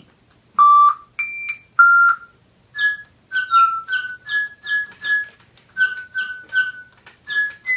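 Spin Master Digibirds electronic toy birds singing: three long, clear notes, then a run of short chirps, about two a second.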